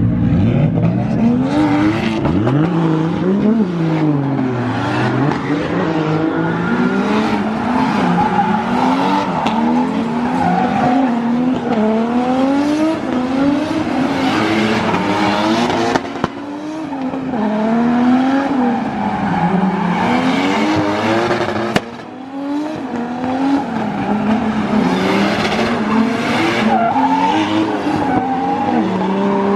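Drift car engine revving up and down over and over, with the tires squealing as the car slides. Twice, about halfway through and again a little later, the sound drops briefly.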